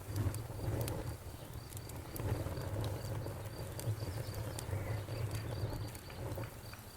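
Wood fire burning with a low rumble, a soft rustle and scattered sharp crackles and pops.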